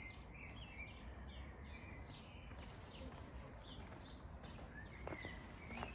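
Birds chirping and singing faintly, many short repeated calls, over a low steady rumble.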